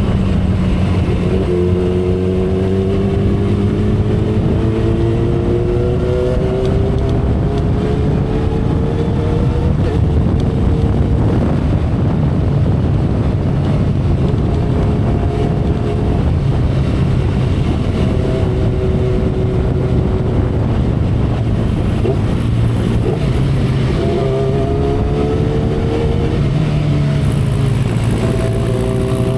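2012 Kawasaki Ninja ZX-10R inline-four engine heard from the saddle at expressway speed, its pitch rising as the bike pulls harder over the first ten seconds, settling into a steady cruise, then rising again twice toward the end. Wind rush and road noise run underneath.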